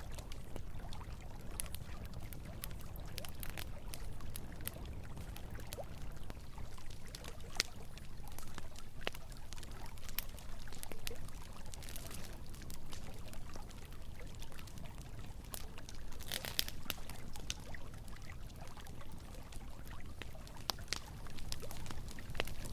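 Campfire crackling with scattered sharp pops, including a brief cluster of them about two-thirds of the way through, over the steady rush of flowing river water.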